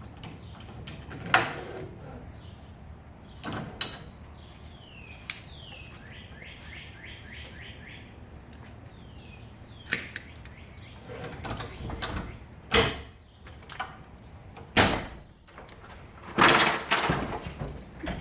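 Several sharp knocks and clunks a few seconds apart from handling the garage door opener's rail and trolley. Birds chirp in the background, with a quick run of repeated chirps about a third of the way in.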